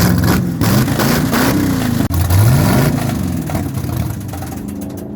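Car engine revving loudly, its pitch rising and falling a few times, then settling somewhat near the end.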